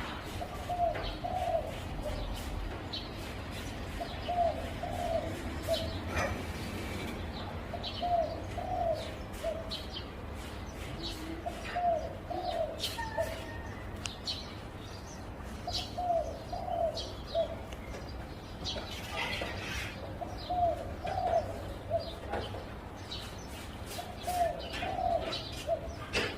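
Zebra dove cooing: a short phrase of soft, rapid, bubbly notes repeated about every four seconds, roughly seven times, with faint chirps of other small birds in between.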